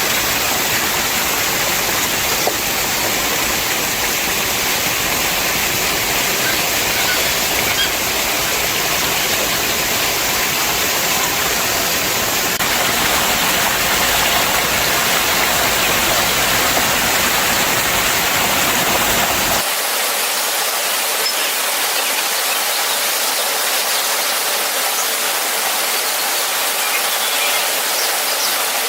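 Steady, loud rush of falling water. About twenty seconds in, the deep part of the rush cuts out suddenly, leaving a thinner hiss.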